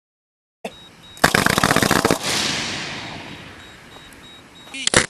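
Aerial fireworks going off: about a second of rapid crackling pops, then a hissing tail that slowly fades, and another sharp bang near the end.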